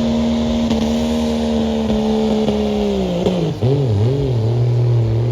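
Pro Street diesel pulling truck's engine at full throttle under load, held at a steady high pitch. About three seconds in the revs fall and waver, then settle at a lower steady pitch.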